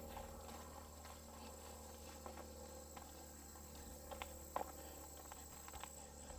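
Quiet outdoor ambience: a steady high-pitched insect drone, with a few light crackles of footsteps on dry ground in the second half.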